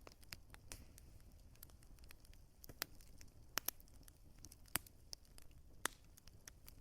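Wood fire crackling: irregular sharp pops and snaps, a few louder ones in the middle, over a faint low rumble.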